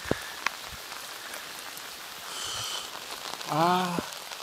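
Pouring rain falling steadily, with a few sharp taps early on. A brief high-pitched sound comes just past halfway, and a short voiced call near the end.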